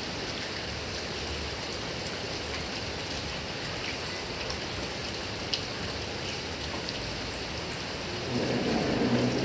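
Heavy rain falling steadily on grass and trees, with one sharp drop-like click about halfway through. Near the end a louder low sound swells for about a second.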